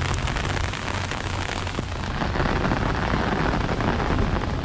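Heavy rain drumming on an umbrella held just overhead: a dense, steady patter of drops on the fabric.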